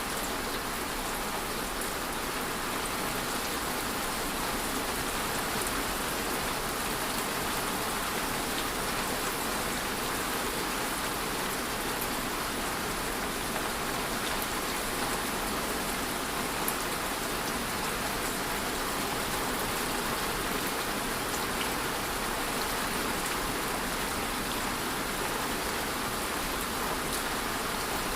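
Steady rain: an even wash of falling rain with faint scattered drop ticks.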